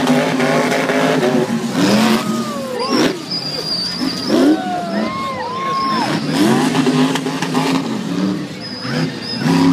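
Monster truck's LS2 V8 engine revving hard and falling back again and again during its run. There are sharp thuds about two and three seconds in.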